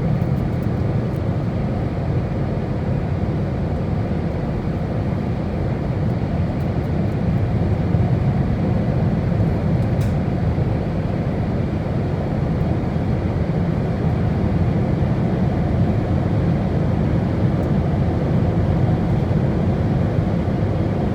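2020 Peugeot Partner's 1.5 HDi four-cylinder diesel pulling hard under full-throttle acceleration at high speed, heard as a steady, deep drone mixed with road noise.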